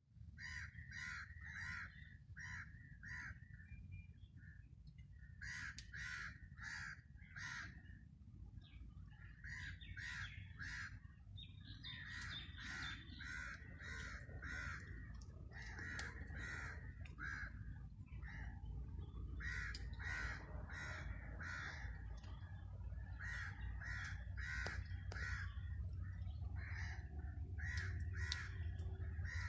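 Birds calling in runs of three to six short, repeated calls with brief pauses between runs. A steady low rumble underneath grows louder in the second half.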